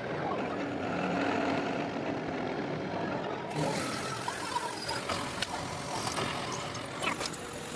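Drilling machine running in a metal workshop, a steady mechanical din. About halfway in, a brighter hiss joins.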